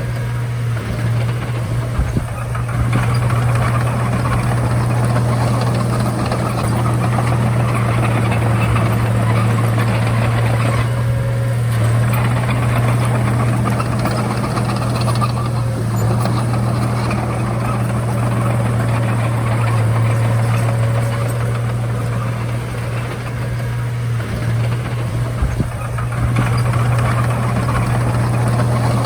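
Komatsu D31A crawler bulldozer's diesel engine running steadily with a constant low hum, with a couple of brief sharp knocks about two seconds in and near the end.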